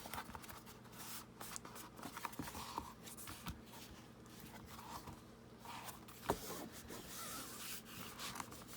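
Soft rustling and rubbing of fabric and paper being folded and pressed down by hand, with one sharp tap about six seconds in.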